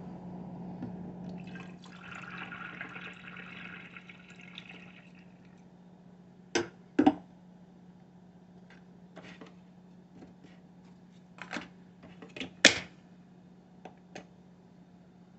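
Single-serve K-cup coffee maker running a brew: liquid streams into the cup for a few seconds over a steady low hum. After that come several sharp clicks and knocks, the loudest near the end.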